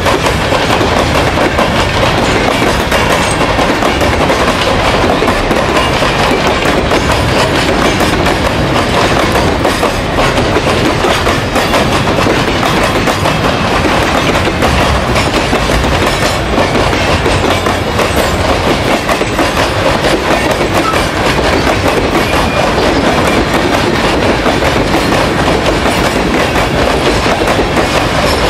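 A long freight train's wagons rolling past at close range: a steady, loud rumble and clatter of steel wheels on the rails, with many small clicks and knocks.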